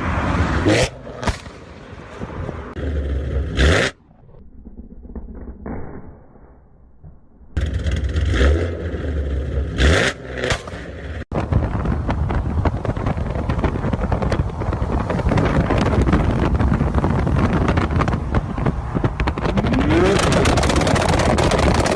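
Sports car exhausts revving, with sharp pops and bangs several times in the first half, then a long loud stretch of continuous exhaust noise with a rising rev near the end, in several abruptly cut clips.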